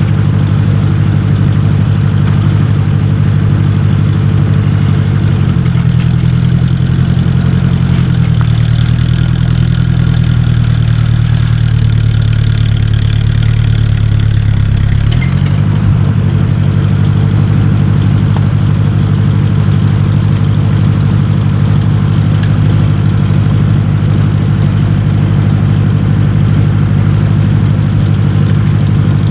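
1953 Ford Jubilee tractor's four-cylinder gasoline engine running steadily. About five seconds in, its pitch drops and stays lower for several seconds, then rises back to its earlier speed at about the halfway point.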